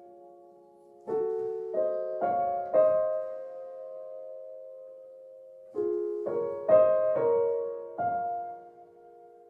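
Solo piano playing slow, gentle chords, each struck note ringing and fading, with a long held chord in the middle.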